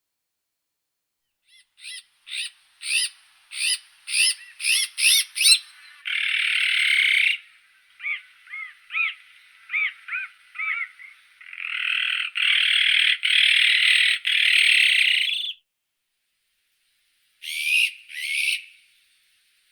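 Azure-winged magpie calling: a quickening run of short calls, then long harsh calls with short rising-and-falling notes between them, and two more harsh calls near the end.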